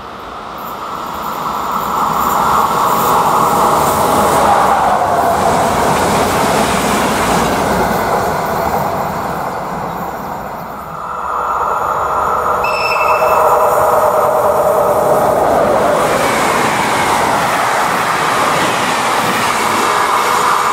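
Passenger trains behind electric locomotives rushing past close by, with wheel-on-rail rumble and air noise. The first builds up and fades away about ten seconds in, then a second train of coaches passes loudly with a brief high-pitched tone about thirteen seconds in.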